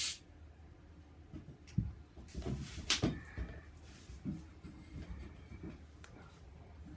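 Small parts and tools being handled on a workbench: a sharp click at the start, then a brief rustle and another sharp click about three seconds in, with a few light knocks.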